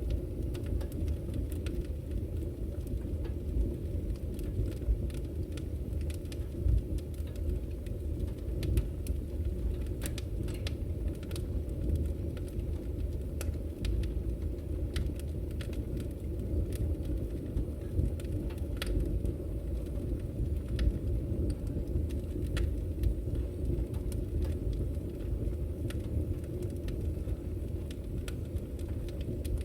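Wood fire burning in a fireplace: a steady low rumble with frequent irregular crackles and occasional sharper pops of the firewood.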